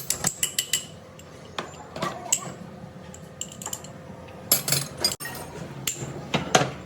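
Metal parts and hand tools clinking and knocking: a quick run of light metallic taps in the first second, then scattered clanks and knocks.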